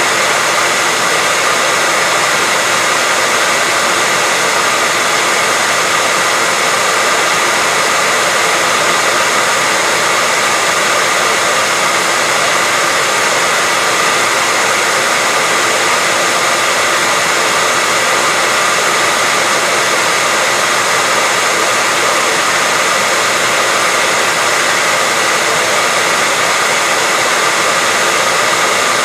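Hair dryer running steadily: a constant fan and motor rush with a faint steady whine, played as white noise for soothing a baby to sleep.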